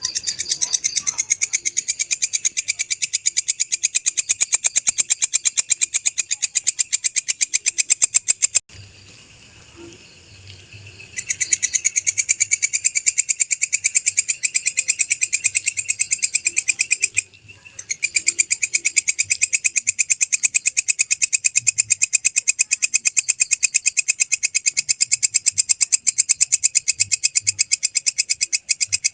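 Walang kecek (belalang kecek) bush cricket stridulating: a fast, even, high-pitched train of dry ticks. It breaks off about a third of the way in for a couple of seconds, resumes, and pauses again briefly just past the middle.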